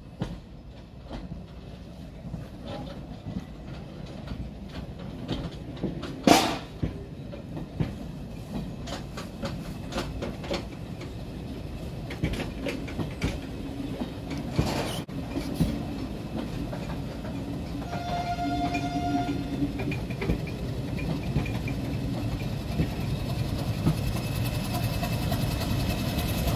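Train of passenger coaches rolling slowly past, wheels clicking over rail joints, with one sharp knock about six seconds in and a brief brake squeal about two-thirds of the way through. The low rumble of the Class 31 diesel locomotive's engine grows louder near the end as the locomotive draws up.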